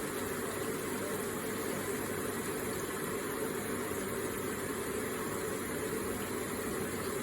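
Electric water feature running: water falling and splashing in a steady, unbroken stream.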